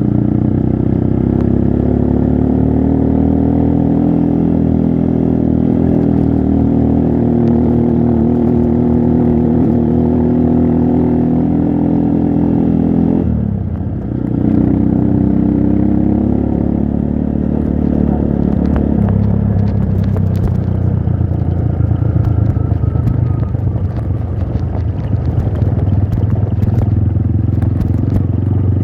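Trail motorcycle engine running under load as it is ridden. About halfway the throttle drops off briefly and comes back, and it then runs steadily at a lower pitch, with scattered clattering knocks in the last third.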